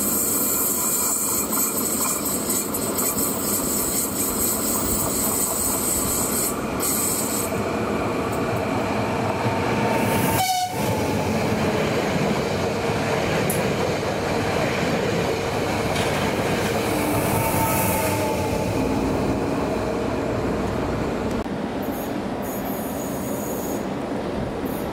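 Koleje Dolnośląskie electric multiple unit passing close by: steady loud rail and wheel noise, with faint whining tones as the cars go past. Near the end another train is heard approaching.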